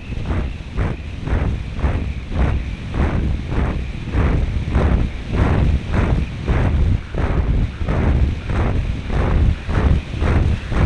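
Wind rushing over the onboard camera of an RC model airplane in flight, buffeting the microphone in quick pulses about two to three times a second, with the plane's small glow engine running as a steady high note underneath.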